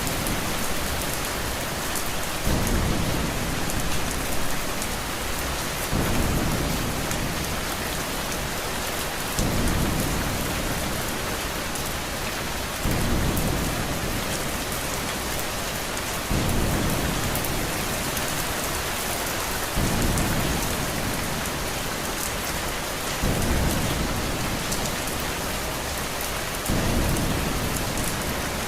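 Steady heavy rain hissing, with a low thunder rumble that swells in sharply and fades away about every three and a half seconds.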